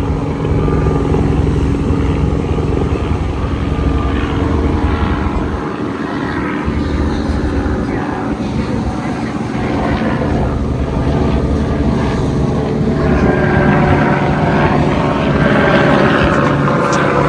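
Engine running with a steady drone. A higher whine of several stacked tones comes in for the last few seconds.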